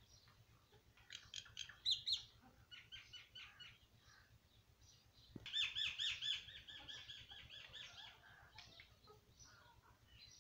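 Birds chirping: scattered short, high chirps in the first few seconds, then a loud, fast run of repeated chirps about five and a half seconds in that tails off over the next few seconds.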